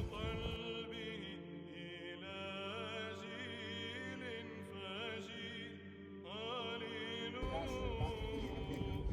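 Background music: a slow sung chant, the voice holding long wavering notes.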